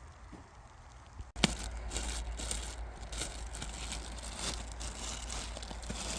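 Rustling and crinkling handling noise that starts abruptly about a second and a half in, opening with a sharp click, then a steady stream of small crackles.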